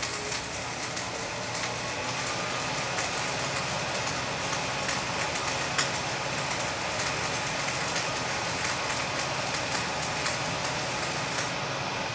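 Flux-core arc welding: a steady sizzling hiss with irregular sharp crackles as the wire arc burns.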